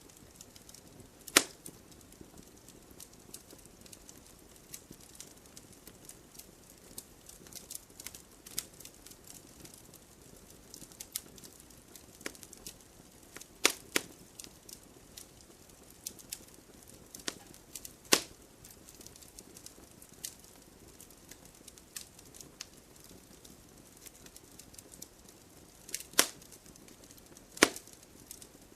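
Wood fire crackling in a fireplace: scattered small ticks over a faint hiss, with about five louder, sharp pops spread through.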